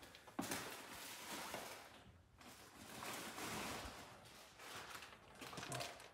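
Faint rustling and handling noises of hands rummaging through spare plastic clips, starting sharply about half a second in and coming and going.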